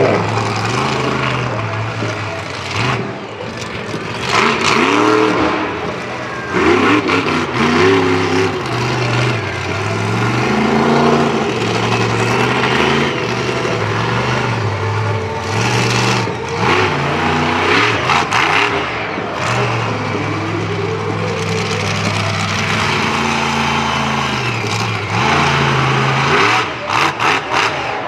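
Monster truck engine revving hard and dropping back again and again as the truck is driven, its pitch climbing and falling every couple of seconds. A few short sharp knocks come near the end.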